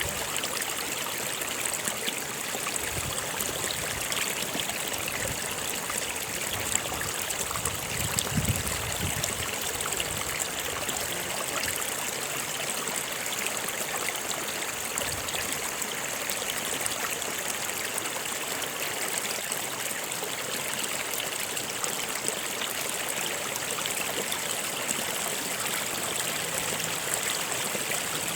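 A stream running steadily, with trickling, gurgling water.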